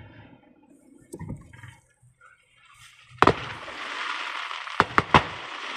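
Fireworks going off. After a quiet start, a sharp bang comes about three seconds in, followed by a long hiss with three quick bangs near the end.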